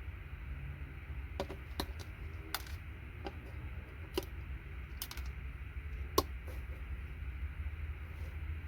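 Scattered light clicks and clinks of small hard electronic scrap parts (plated pins, components and board pieces) being handled and picked over, one sharper clack about six seconds in, over a steady low hum.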